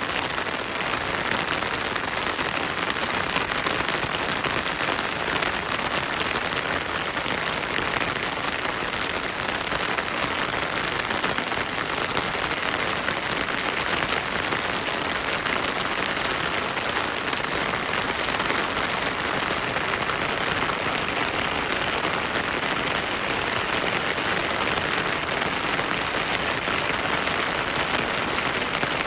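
Heavy rain falling steadily through a forest: a dense, even hiss of drops that holds at one level throughout.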